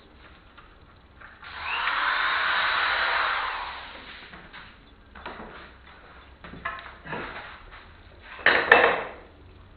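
Power tool running on wood for about two and a half seconds, then a series of wooden knocks and clatters, the loudest near the end.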